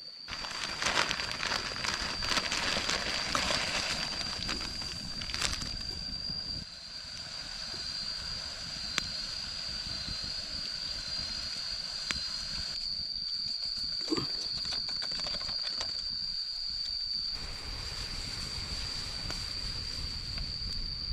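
Insects in the forest at dusk keep up one steady high-pitched tone, over a continuous rustling, crackling noise with scattered clicks.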